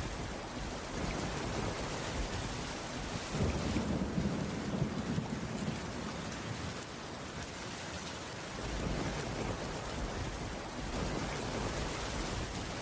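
Steady rain falling on a wooden cabin roof, an even hiss of drops, with a low rumble swelling for a couple of seconds a few seconds in.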